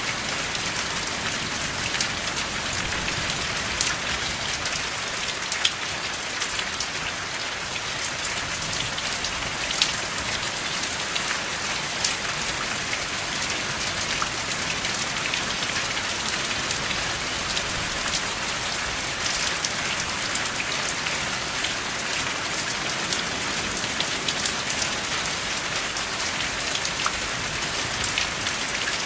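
Steady rain with no thunder: an even hiss of falling rain, dotted with many sharp clicks of single drops striking close by.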